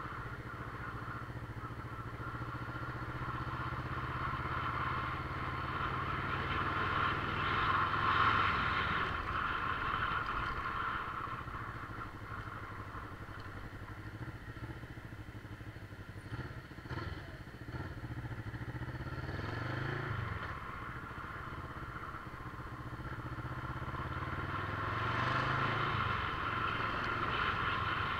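Motorcycle engine running while riding. Its pitch rises and falls a few times as the revs change, and it gets louder about a third of the way in and again near the end.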